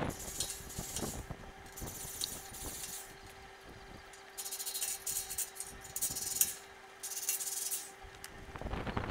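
Repeated rough scraping strokes, each about a second long, five in all with short gaps, over a faint steady hum.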